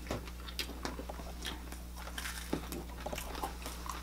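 Quiet chewing and mouth sounds of people eating, a run of scattered short clicks and smacks.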